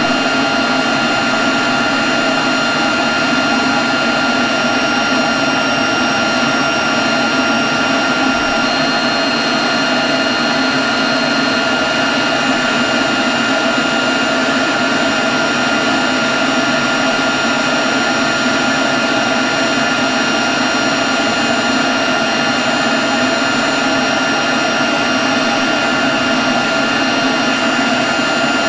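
Leaf blower running steadily at a constant speed: a loud rush of air with a steady high whine over it.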